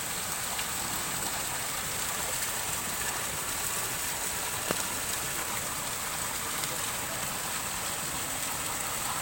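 Steady rushing water noise, as of the waterfall or heavy rain, with one brief click near the middle.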